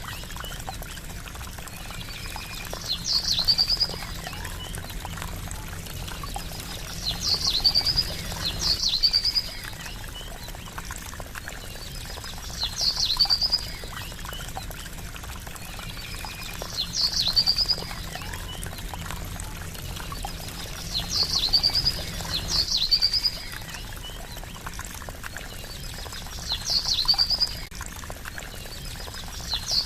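Trickling water running steadily, with a short high chirping call repeating about every four seconds.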